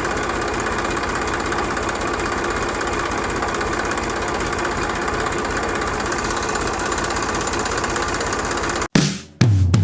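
A DIY mini tractor's small motor running steadily with a fast, even chatter. It cuts off abruptly near the end, and music with a heavy bass begins.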